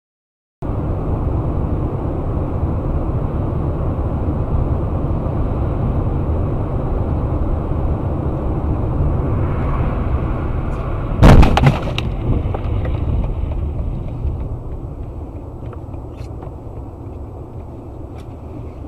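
Steady vehicle running noise picked up by a dashcam, broken about eleven seconds in by a loud crash impact with a second knock right after it. The running noise then slowly fades.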